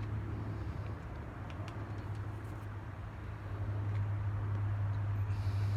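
A steady low hum with faint background noise, and a few faint ticks.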